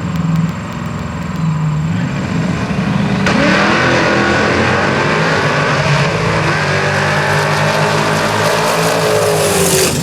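A GMC shop truck and a Camaro drag racing: engines running low at the line, then both launch at full throttle about three seconds in, with rising engine notes as they accelerate hard down the street.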